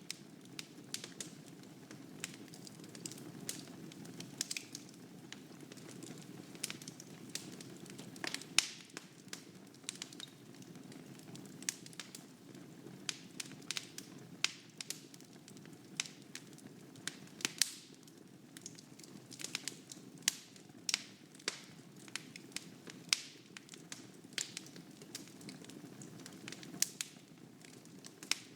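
Wood fire burning in a fireplace: a steady soft hiss of flames with frequent sharp, irregular crackles and pops from the burning logs.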